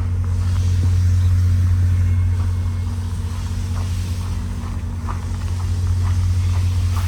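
Diesel locomotive idling: a steady low drone.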